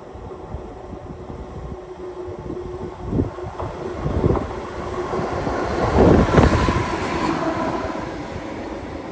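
A train passing on the line, its noise building to a peak about six seconds in and then easing, with a few heavy wheel thumps along the way. Wind is audible on the microphone.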